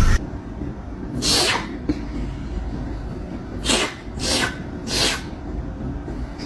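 Four short, sharp, breathy bursts: one about a second in, then three in quick succession a little past the middle.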